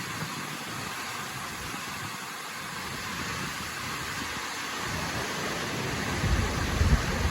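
Waterfall rushing, a steady roar of falling water, with a deeper rumbling coming in near the end.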